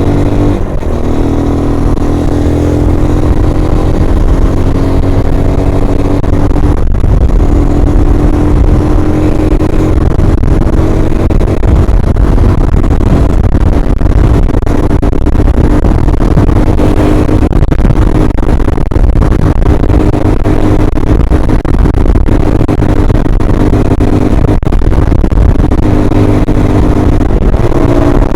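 Single-cylinder engine of an MGB ATX125 adventure motorcycle pulling hard up a long climb, under heavy wind noise on the microphone. About a second in the engine note dips and drops in pitch, then the revs climb slowly as it works up the hill.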